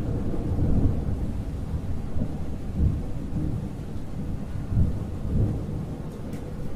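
Thunder rumbling low and continuously, swelling several times, with rain falling.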